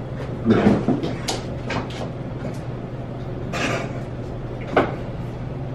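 A series of knocks and clunks, the loudest about half a second in and a sharp one near the end, over a steady low hum.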